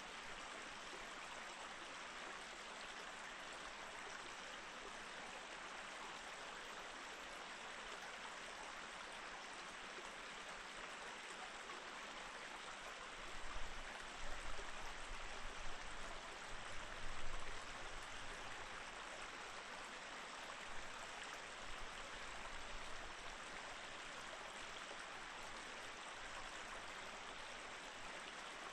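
Mountain stream in snow, flowing steadily with an even rush of water. A few seconds past the middle, a low rumbling with several louder thuds rises under the water sound, then dies away.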